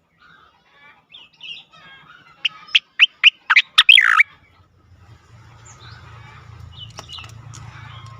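Cica koreng (striated grassbird) singing: scattered whistled notes build into a loud, quick run of sharp whistles about a third of the way in, then give way to softer warbling. A low steady hum comes in about halfway.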